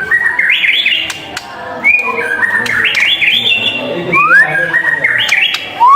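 White-rumped shama singing a fast, varied song: quick rising whistled notes strung into chattering phrases with no pause.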